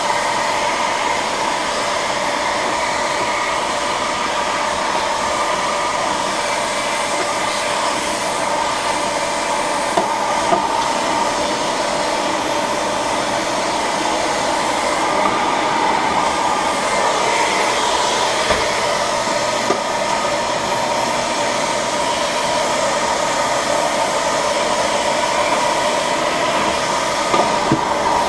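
Vacuum cleaner running steadily with a whine, its nozzle sucking dust off a refrigerator's condenser coil. A few small knocks come as the nozzle touches the coil, two about ten seconds in and one near the end.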